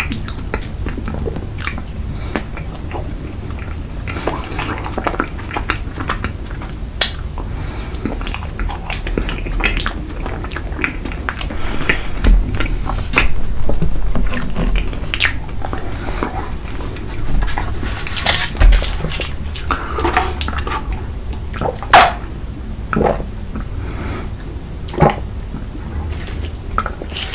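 Close-miked eating: a spoon clicking and scraping against a dish, with chewing. Scattered sharper clinks stand out now and then.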